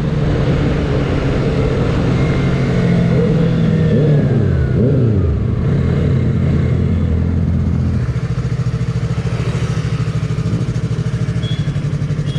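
Sport motorcycle engine running loudly on the move, holding a steady note; about two-thirds of the way through it drops into a lower, evenly pulsing beat.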